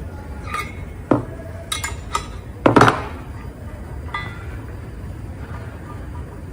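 Metal tool clinking and knocking against a truck air-disc brake caliper as it is taken out and handled: a string of sharp clinks, the loudest about three seconds in, then quieter handling sounds.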